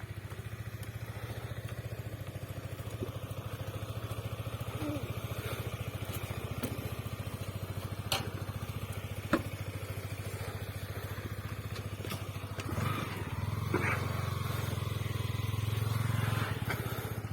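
Motorcycle engine running steadily with a low, even pulse. It grows louder from about thirteen seconds in, with a few short clicks along the way.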